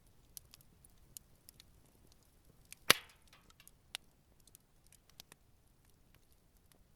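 Campfire wood burning with scattered light crackles, and one loud pop about three seconds in, followed a second later by a smaller one.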